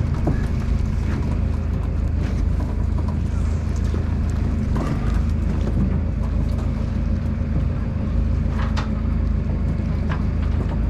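A boat's engine running steadily at a low, even drone, with a few brief sharp sounds over it, one about nine seconds in.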